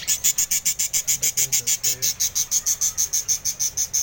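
Budgerigar chicks begging in a nest pot: a rapid, even run of high chirps, about eight a second, that starts suddenly.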